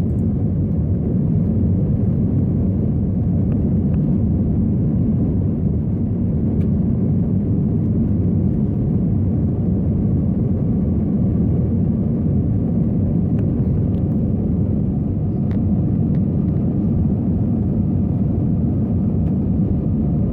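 Steady low rumble of an Airbus A321's engines and rushing air heard inside the passenger cabin during the climb after take-off.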